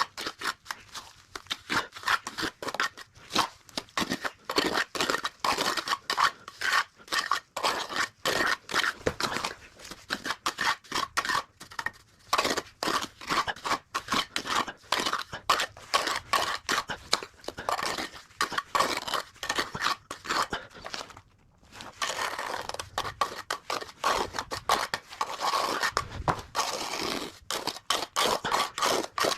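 Steel trowel scraping wet cement mortar in quick, repeated strokes, with a short pause about three quarters of the way through.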